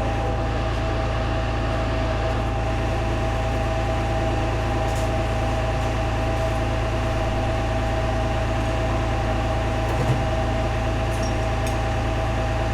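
Steady machine hum with a constant low drone and a faint whine, unchanged throughout, with a few light clicks near the end.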